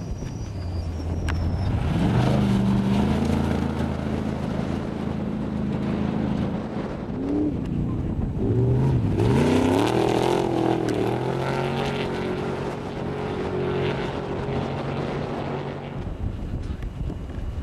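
Off-road race vehicle's engine running hard. About eight to nine seconds in its pitch dips, then climbs again as it revs back up, and it holds steady until it fades near the end.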